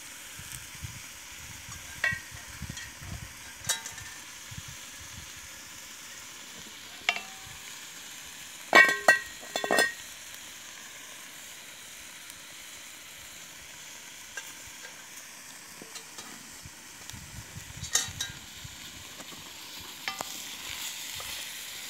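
Two young francolin sizzling and frying in a cast iron pot over hot coals, the cooking water nearly boiled away. Scattered clinks and knocks run through it, with a short run of loud metallic clanks about nine seconds in.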